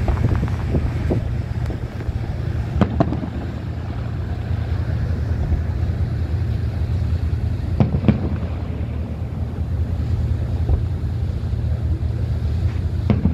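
Fireworks going off in scattered sharp bangs, a pair about three seconds in and another about eight seconds in, over the steady low drone of a river cruise boat's engine and wind on the microphone.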